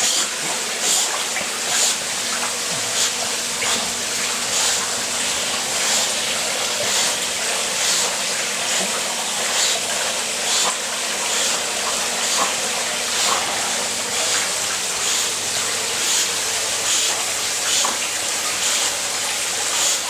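Pool water rushing steadily, with a splash about once a second as a dog paddles through it, and a faint steady hum underneath.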